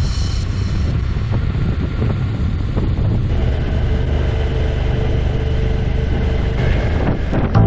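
Motorcycle engine running steadily at road speed, with wind rushing over the camera microphone.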